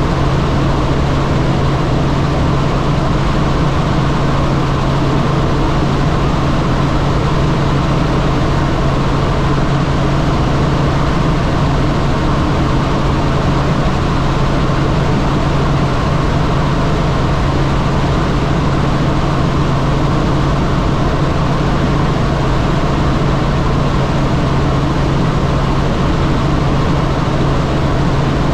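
Helicopter in flight: steady, loud rotor and turbine noise with a strong, unchanging low hum.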